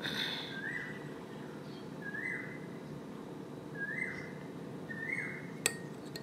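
A bird repeating one short whistled call, a quick rise to a held note, five times about every second and a half, with one sharp click near the end.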